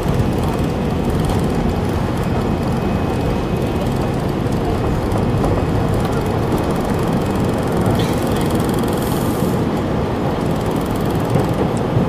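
Airplane during takeoff: steady, loud engine and rushing-air noise with a faint, even hum underneath.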